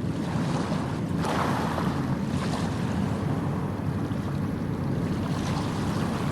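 Suitcase wheels on a new Boeing Style chassis rolling fast over the ground in a speed test, a steady rumble with a few brief hissy rises.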